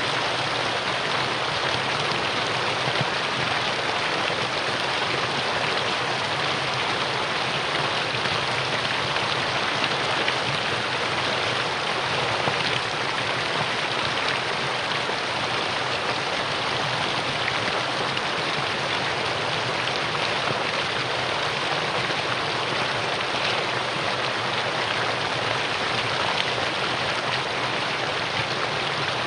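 Mountain valley stream flowing over rocks: a steady, even rush of water with no change throughout.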